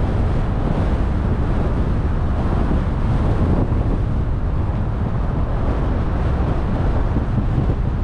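A car driving at steady speed: an even road and wind rumble, heaviest in the low end, with wind buffeting the microphone.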